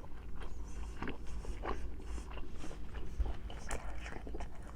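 A person chewing a big mouthful of rib eye steak close to the microphone: irregular wet mouth clicks and smacks.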